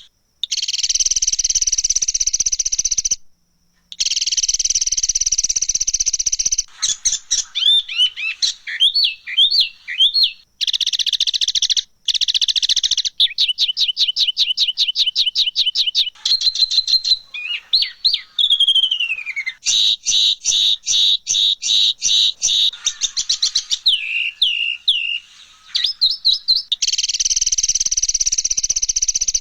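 Recorded songbird calls played back as a rough 'masteran' training track. Harsh, buzzy chattering alternates with rapid even trills and falling slurred whistles, in separate segments that start and stop abruptly, with brief gaps between some of them.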